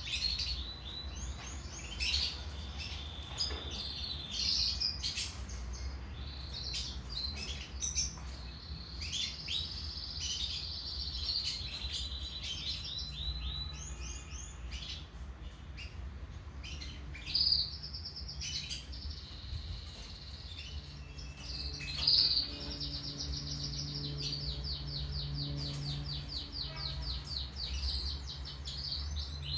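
Domestic canary singing: runs of rapid trills and quickly repeated notes, with a long, fast, even trill held for several seconds near the end, over a low steady hum.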